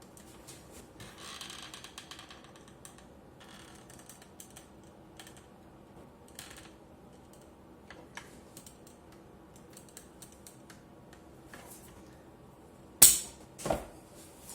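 Scattered light clicks and taps of small hard objects being handled, then two loud sharp knocks about half a second apart near the end.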